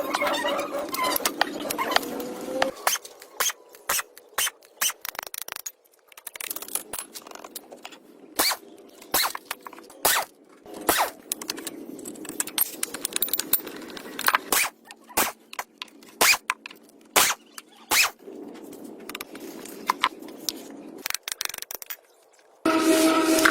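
Irregular sharp metal clicks and taps with scraping between them, from hand-tool work on plough parts. About a second before the end, a loud steady rubbing sound with a held hum starts abruptly.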